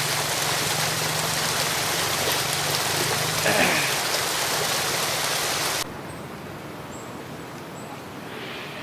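Steady hiss of rain pattering on leaves, which stops abruptly about six seconds in, leaving a quieter background with a few faint high chirps.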